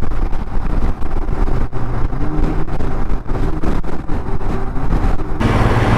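Royal Enfield Himalayan motorcycle cruising on the highway: the engine runs steadily under low wind rumble. About five seconds in, the sound switches abruptly to a louder, steadier engine note.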